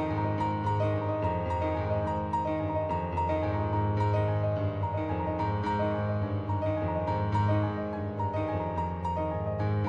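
Background music: a gentle piano piece with repeated notes played at an even pace.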